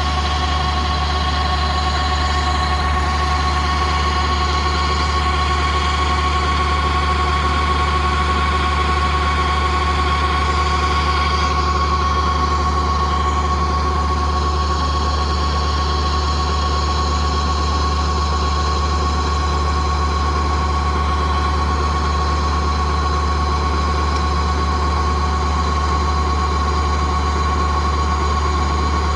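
Kubota rice combine harvester's diesel engine running steadily under an even load, with a constant high whine from its drives.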